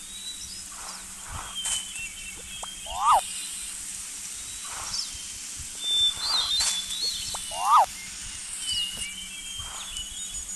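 Birds calling in a natural soundscape: many short high chirps and whistles, with a louder quick up-and-down call about three seconds in and again near the end, over a faint steady hum.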